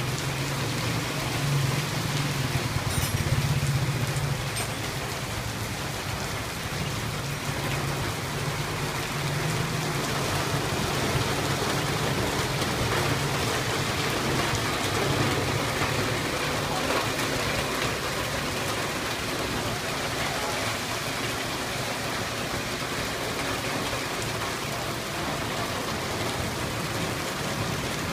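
Heavy rain pouring steadily onto a wet street and roofs, with a low rumble of traffic through the water, strongest in the first few seconds.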